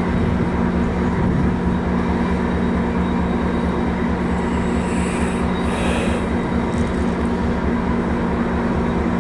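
MARC bilevel commuter train standing at the platform, its diesel locomotive running with a steady drone. Two brief hisses come about five and six seconds in.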